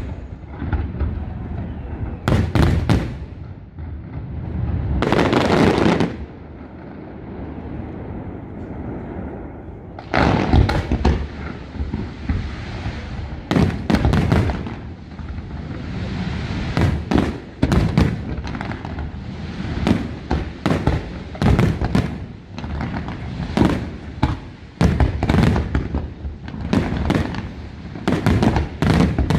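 Aerial fireworks shells bursting: a few separate booms in the first six seconds, a quieter stretch, then from about ten seconds in a rapid run of bangs, several a second.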